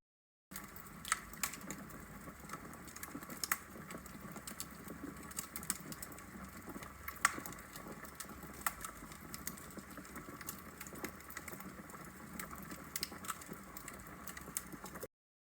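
Wood logs burning in a fireplace, crackling with irregular sharp pops and snaps over a soft steady rush of flame. The sound starts abruptly after a brief dead silence and cuts off suddenly near the end.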